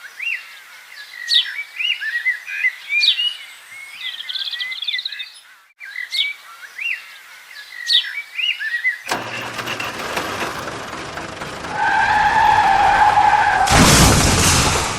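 Small birds chirping and twittering for about nine seconds, then a steady rushing vehicle noise that carries a held whining tone near the end and grows loud in the last second.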